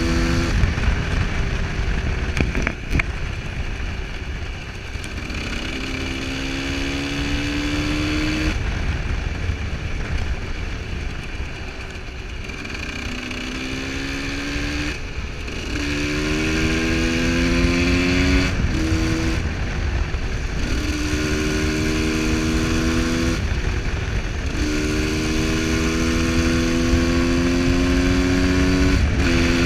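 Husqvarna SM125 supermoto's single-cylinder engine pulling through the gears while riding: its pitch climbs steadily, then drops at each gear change, several times over, above a constant low rumble.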